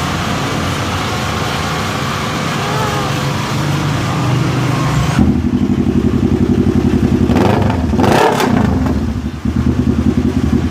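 Kawasaki Z1000R's inline-four engine idling through a newly changed muffler, with even exhaust pulses. It is blipped once about eight seconds in, the pitch rising and falling, then settles back to idle.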